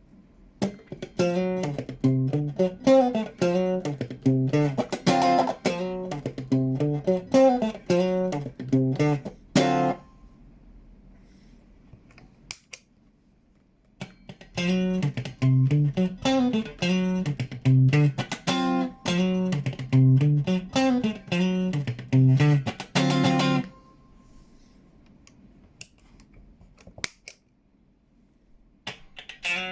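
Electric guitar played through a DOD 440 envelope filter pedal, playing a rhythmic riff of picked notes. Two phrases of about nine seconds each, with a pause of a few seconds between them.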